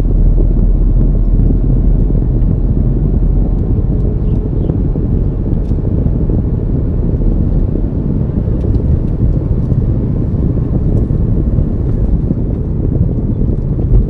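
Steady low rumble of a car on the move: road and wind noise, with a few faint clicks.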